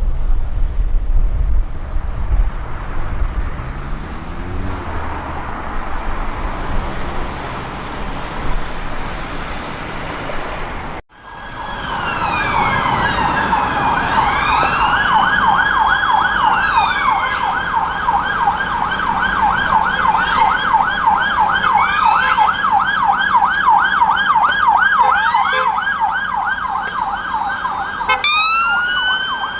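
Traffic rumble with an engine speeding up, then, after a sudden cut about a third of the way in, an emergency vehicle siren on a fast yelp with a slower rising-and-falling wail over it. Near the end another cut brings in a different siren's wail.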